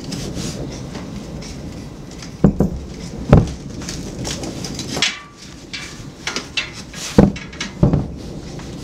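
Aerial firework shells bursting: five sharp bangs in two clusters a few seconds apart, with crackling between them.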